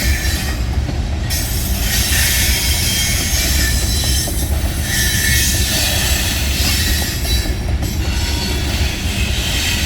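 Freight cars of a long train rolling past, wheels rumbling steadily on the rail with high-pitched wheel squeal that comes and goes.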